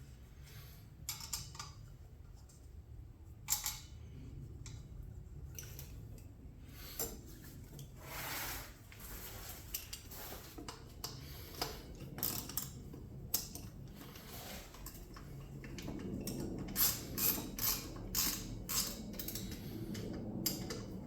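Scattered clicks and clinks of hand tools and metal motorcycle parts being handled, with a short scraping sound about eight seconds in and a quicker run of clicks near the end.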